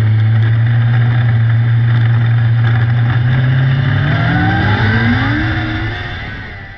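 Micro sprint car engine running at a steady pitch, then revving up with a rising whine about four seconds in, before fading out.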